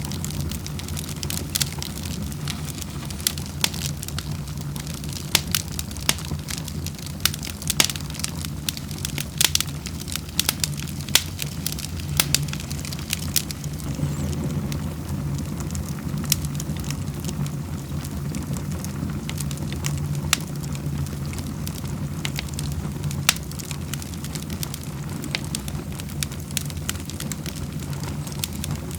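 Wood fire crackling in a fireplace: irregular sharp pops and snaps, some in quick clusters, over a steady low rumble.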